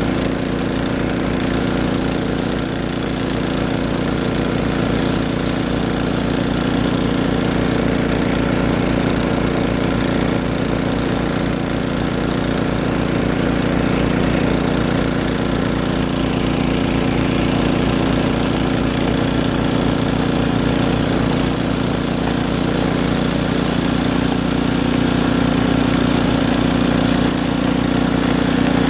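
Gas snowblower engine running steadily under load.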